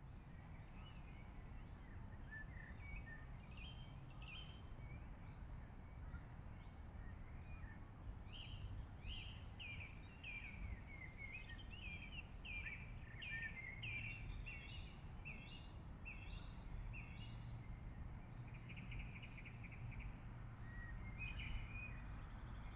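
Small birds chirping and twittering in quick short notes, busiest in the middle, over a faint steady low rumble of background noise.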